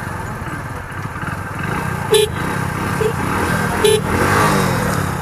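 Hero Splendor Plus's 100 cc single-cylinder engine running at the start line, its note rising a little past the middle. Three short motorcycle-horn toots come about two, three and four seconds in, the middle one weaker.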